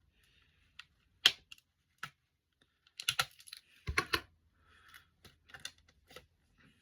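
Unboxed items being handled by hand: scattered sharp clicks and light crinkling. One loud click comes about a second in, and clusters of clicks follow around three and four seconds.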